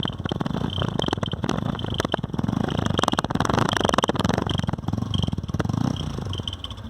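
TVS Apache RTR 160's single-cylinder engine idling with an uneven putt-putt from the exhaust, swelling and easing about once a second. The sputter comes from an insect's mud nest partly blocking the silencer.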